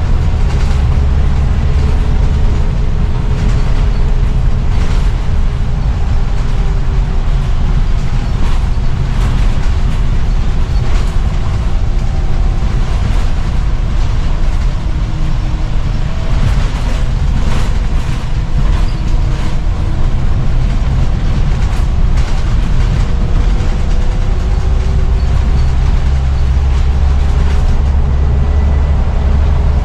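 Scania CN94UB bus's diesel engine running under way: a heavy low rumble, with an engine and drivetrain whine that slowly rises and falls as the bus accelerates and eases off, and scattered small rattles.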